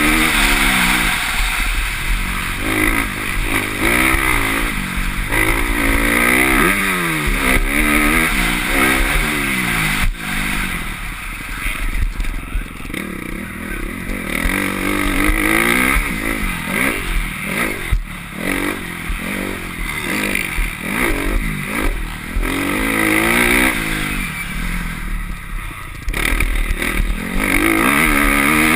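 Motocross bike engine, heard from the rider's helmet, revving up again and again through the gears with short throttle-off stretches, and a couple of sharp knocks midway.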